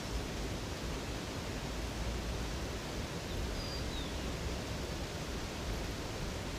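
Steady rush of flowing water, as from a river or waterfall, with a faint high bird chirp about halfway through.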